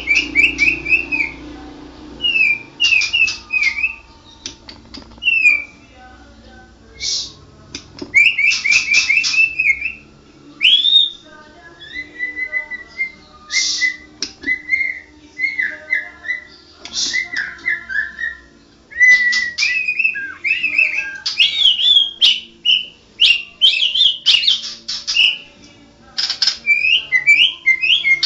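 White-rumped shama (murai batu) singing a long, varied song: clear whistled phrases that slur up and down, broken up by rapid buzzy rattles and trills, with short pauses between phrases.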